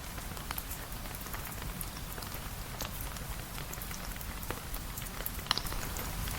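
Steady rain with many scattered drips and taps, and one sharper click about five and a half seconds in.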